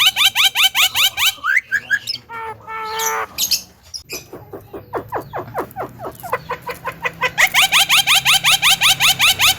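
A Javan myna (jalak kebo) calling in a rapid, loud series of rising notes, about eight a second. The series breaks off after about a second into a few scattered calls. A quieter run of the same notes follows, and a loud run starts again about seven and a half seconds in.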